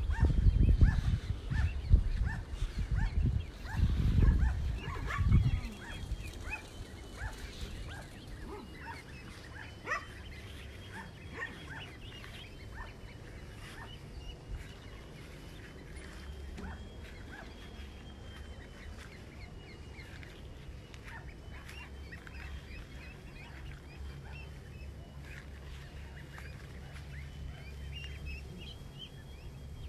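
Farmyard poultry calling, with many short overlapping calls throughout. A heavy low rumble of noise on the microphone covers the first six seconds.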